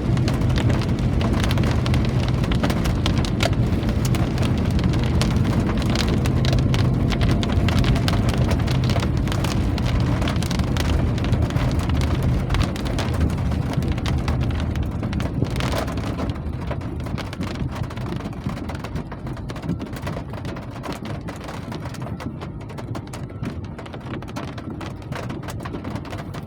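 Rain falling and pattering on a surface, a dense hiss full of individual drop hits. A low rumble under it in the first half fades out, and the rain grows quieter from about halfway through.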